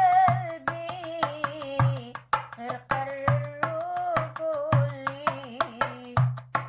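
Rai song with a woman singing a long, wavering melody over a quick, steady percussion beat of drum hits and clicks.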